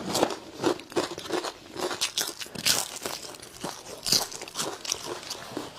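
Close-up biting and chewing of crispy deep-fried pomfret, a string of irregular crisp crunches.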